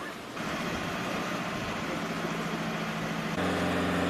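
A vehicle engine running steadily, cutting in suddenly just after the start and getting louder about three and a half seconds in.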